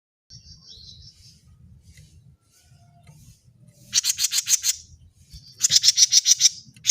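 Cucak jenggot mini singing: faint high chirps near the start, then two loud bursts of rapid, evenly repeated notes, about four and six seconds in.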